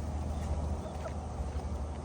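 Newborn puppies giving a few faint, short squeaks over a steady low rumble.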